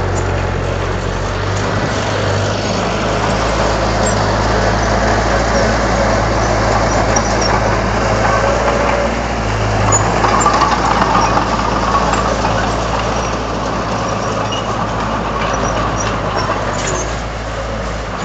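Komatsu D31 bulldozer's diesel engine running steadily under load, a deep hum with mechanical clatter over it, swelling briefly about ten seconds in.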